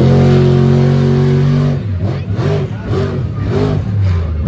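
Monster truck's V8 engine held at high revs for nearly two seconds, then revved up and down in quick blips, about two or three a second.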